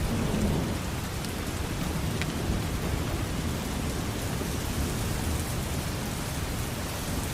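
Steady rain falling, an even hiss with a heavier low rush beneath it.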